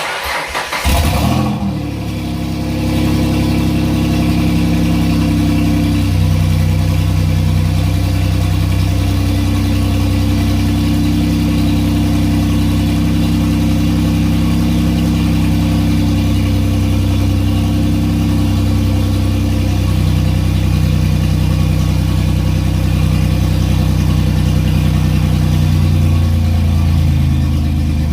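A Ford Mustang's twin-turbo V6, fitted with VR4 turbochargers, cranks and fires on its first start. It then runs at idle, the idle speed rising and dropping a few times, with a brief rise and fall near the end.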